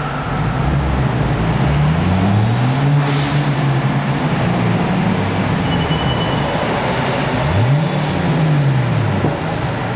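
JDM sports car engines revving and accelerating inside a road tunnel. The engine pitch rises and falls several times, with a steep climb about three-quarters of the way through.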